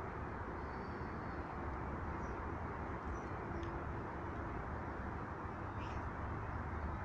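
A few faint, short chirps from small birds at the feeders, scattered over a steady low background rumble.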